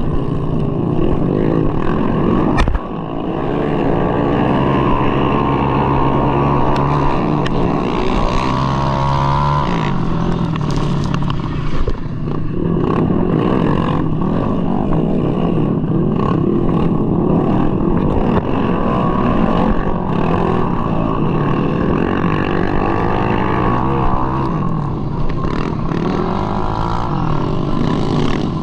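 Tuned single-cylinder scooter engine, a Mahindra Rodeo bored up to 200cc, running hard under race throttle, its pitch rising and falling as the throttle opens and closes. A sharp knock comes a little under three seconds in, followed by a brief dip in the engine sound.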